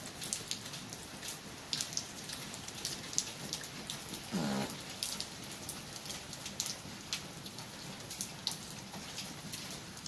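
Heavy rain falling steadily, with many sharp taps of single drops striking close by. About four and a half seconds in there is one brief sound with a falling pitch, like a voice.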